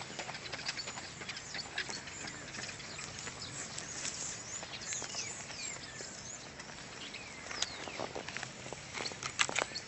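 Small birds chirping and calling, short whistled notes, several sliding downward, over outdoor background noise. Scattered rustling and crunching steps on dry leaves and dirt, loudest in a short cluster near the end.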